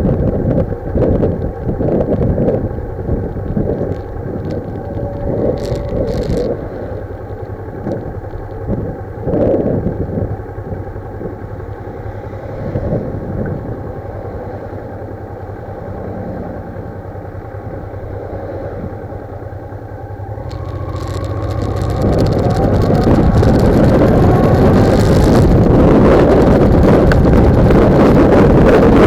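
Wind buffeting the microphone of a motorcycle-mounted camera while riding, with the motorcycle's engine underneath. It is gusty at first and eases in the middle, then grows much louder and steadier from about twenty seconds in as the bike gathers speed.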